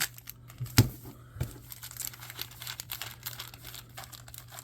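Trading-card pack wrappers crinkling and tearing as packs are handled and opened, with a sharp thump about a second in.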